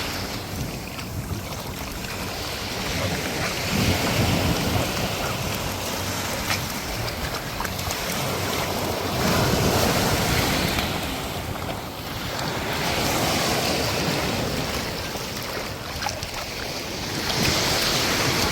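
Small surf washing onto the beach, swelling and fading every four or five seconds, with wind buffeting the microphone.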